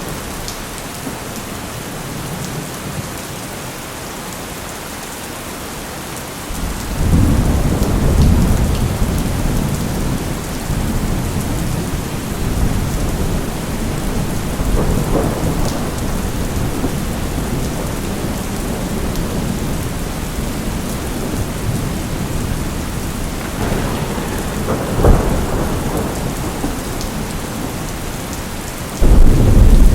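Steady heavy rain with thunder: a deep roll of thunder breaks in about a quarter of the way through and keeps rumbling, with a sharper crack later on and another loud roll starting just before the end.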